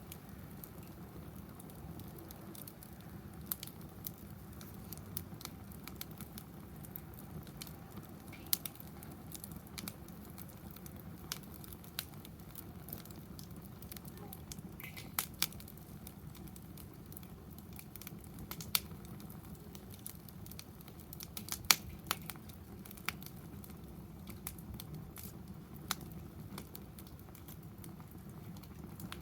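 Wood fire burning in a fire pit stand: a steady low rush of flame with irregular sharp pops and crackles from the burning wood, one pop standing out about three quarters of the way through.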